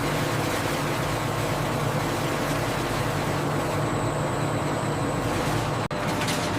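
Processing-plant machinery running with a steady mechanical hum and noise. It breaks off for an instant near the end, then a few sharp ticks begin.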